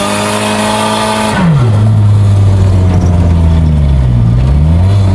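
Nissan S14 drift car's engine held at high revs, then dropping quickly about a second and a half in to a much lower steady note, with a brief dip and rise again near the end.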